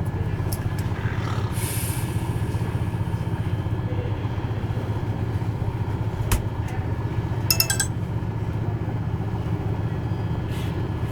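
Steady low rumble of a train in motion, heard from inside the carriage, with one sharp knock about six seconds in and a brief high rattle of clicks about a second later.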